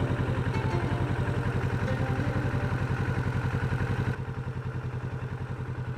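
Kawasaki Vulcan 650's parallel-twin engine idling steadily while stopped, with an even pulsing beat; it gets a little quieter about four seconds in.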